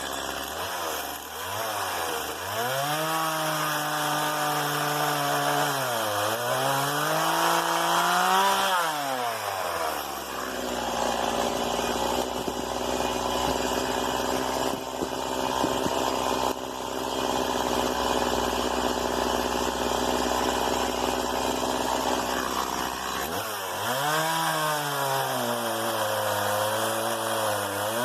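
STIHL MS 170 two-stroke chainsaw running near full throttle while cutting wood. Its pitch dips and recovers several times in the first third, holds steady for about twelve seconds, then dips and wavers again near the end.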